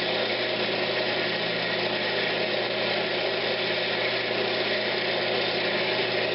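Wood lathe running steadily with a hum, while a tool smooths the edges of a spinning pine cabinet knob.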